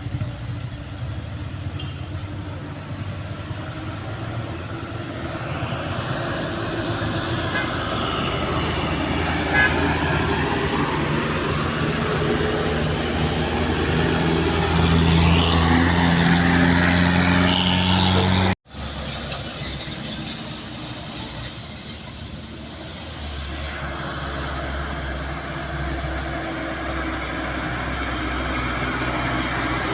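Heavy truck engine running amid road traffic noise, growing louder through the first half, with an abrupt dropout about two-thirds of the way through.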